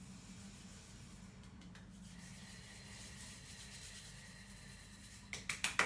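Faint rubbing, then near the end a fast run of sharp claps or taps starts, about six a second.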